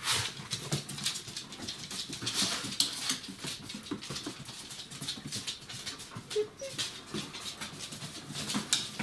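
Young border collie puppies, 34 days old, moving about with many small clicks and scuffles, and a faint brief whimper about six and a half seconds in.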